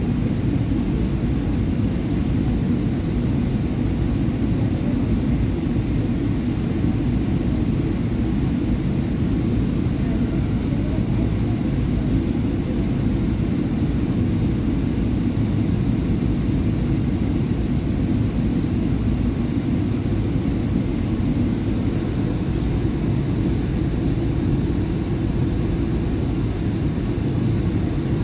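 SEPTA Market-Frankford Line subway train under way, its wheels and motors giving a steady, even low rumble.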